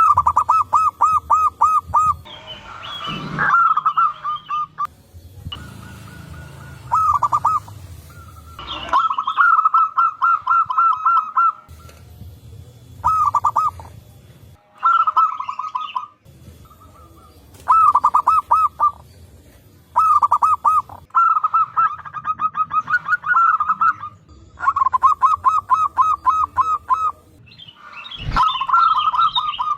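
Zebra doves (perkutut) cooing: repeated phrases of fast staccato notes, about seven a second, from several birds answering one another, with a low background rumble between phrases.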